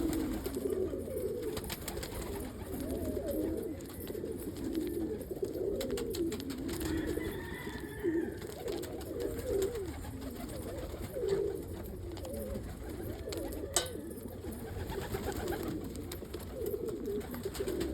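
Domestic pigeons cooing, several low warbling coos overlapping one another without pause. One sharp click about three-quarters of the way through.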